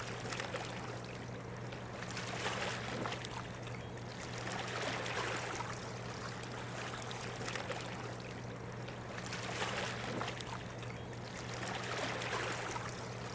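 Water rushing below a hydroelectric dam, rising and falling in swells every few seconds, over a steady low hum.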